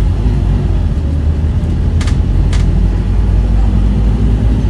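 Diesel engine of a Scania N230UD OmniCity double-decker bus running with a steady low drone. Two short clicks come about two seconds in.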